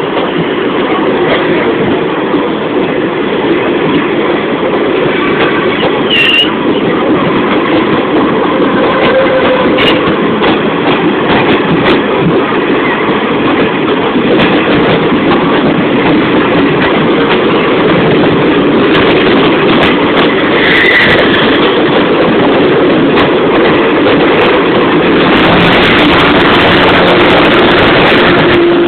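Passenger train running on the rails: a steady, loud rumble and rattle of wheels and carriages, with two brief high squeals and growing louder over the last few seconds.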